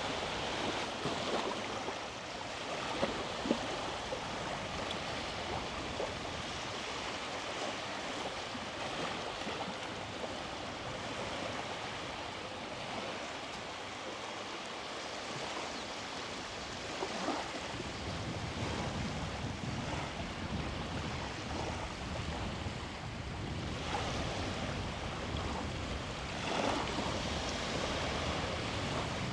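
Sea waves washing on a beach, a steady hiss of surf. About halfway through, a low rumble joins and stays.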